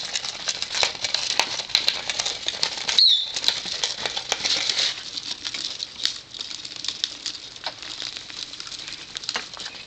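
Lovebird chewing and shredding a toy with its beak: dense, rapid crinkling and clicking, with a short high chirp about three seconds in.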